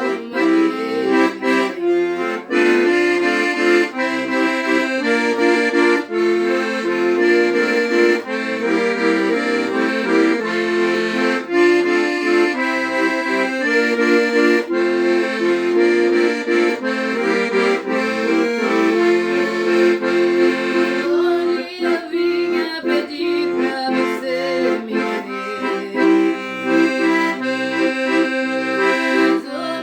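Solo instrumental performance of a song: a melody in sustained notes over short, regularly repeating bass notes and chords, with a long held chord about two-thirds of the way through.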